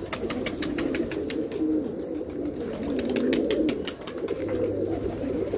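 Several domestic pigeons cooing at once in an overlapping low murmur, with many light clicks over it.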